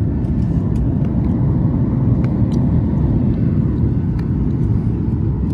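Steady low rumble of a Boeing 737 MAX 9's CFM LEAP-1B engines and airflow heard inside the passenger cabin, with a faint steady hum underneath and a few light ticks.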